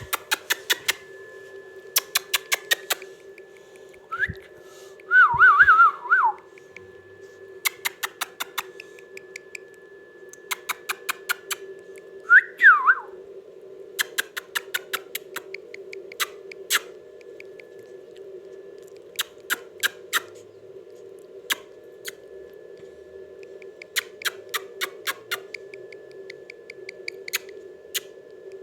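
Parrot giving two warbling whistles, a longer one about five seconds in and a shorter one about twelve seconds in, between repeated quick runs of sharp clicks over a steady hum.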